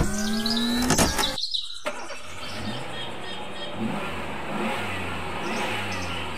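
A motor or engine whine rising slightly in pitch, cut off sharply about one and a half seconds in, followed by steady outdoor background noise with faint bird chirps.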